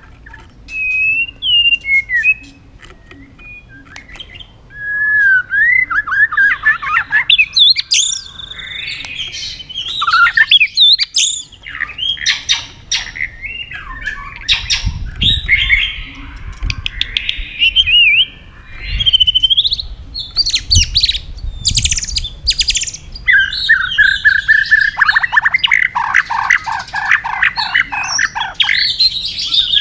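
White-rumped shama singing a long, varied song of whistled phrases and harsh chattering notes, ending in a fast run of repeated notes. Low thumps are heard in the middle.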